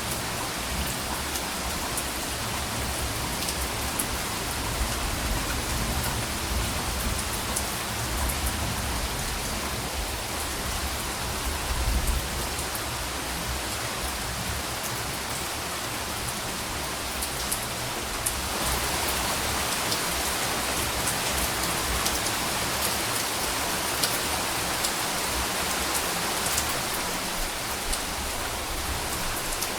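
Steady rain falling, an even hiss with fine patter of drops, and a low rumble underneath that is strongest about twelve seconds in and fades out soon after. The rain grows a little louder about two-thirds of the way through.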